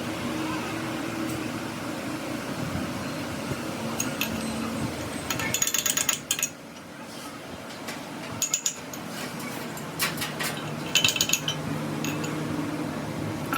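A workshop machine running with a steady hum, broken three times by short bursts of rapid metallic clicking, about six and a half, eight and a half and eleven seconds in.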